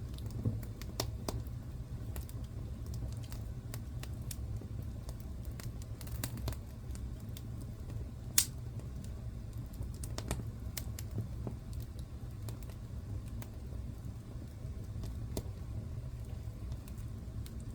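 Wood fire in a fireplace crackling: irregular sharp pops and snaps over a steady low rumble of the flames, with one louder pop about eight seconds in.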